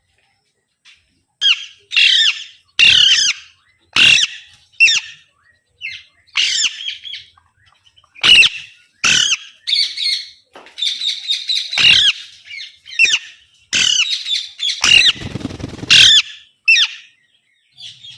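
Pet green parrot giving a long series of short, harsh squawking calls, one after another with brief gaps, calling out to someone. A noisy rustling burst of about a second comes near the end.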